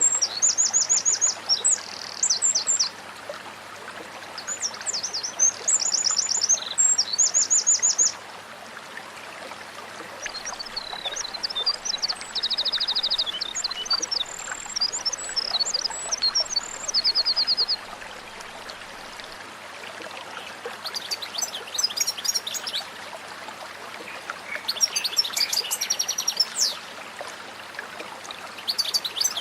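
White-rumped shama (murai batu) singing in separate bursts of high whistled phrases and fast trills, with short pauses between them, over a steady rush of flowing water.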